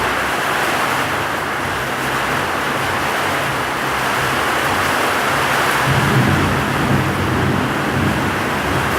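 Heavy rain pouring steadily in a storm, with a low rumble of thunder swelling in about six seconds in and fading over a couple of seconds.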